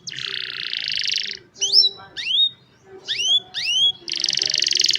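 Young domestic canary singing: a rapid, buzzy trill lasting about a second and a half, then a run of quick upward-sweeping whistled notes, then another rapid trill near the end.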